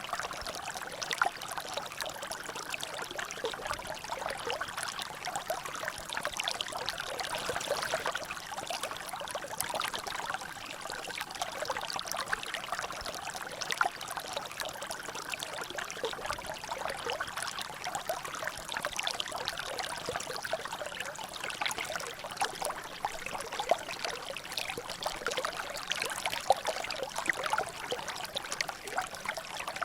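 Water trickling and dripping steadily into a natural drainage: a continuous dense patter of small splashes, with no pause or change.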